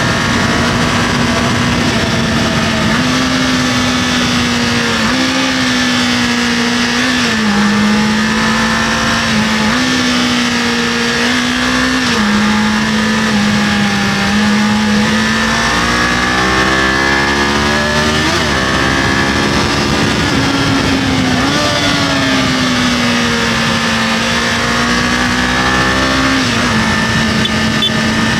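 Kawasaki KLE500 motorcycle engine running under a varying throttle, its pitch stepping up and down every few seconds as the rider eases on and off and changes gear, with a longer sweep of falling and rising revs about halfway through. A steady rush of road and wind noise runs underneath.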